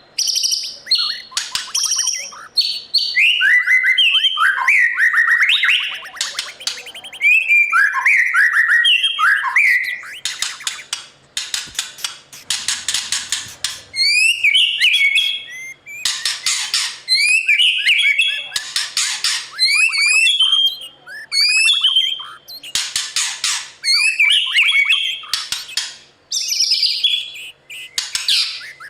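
White-rumped shama singing a long, varied song: clear whistled phrases and quick rising and falling notes, mixed with harsh noisy notes, in a continuous string with brief gaps.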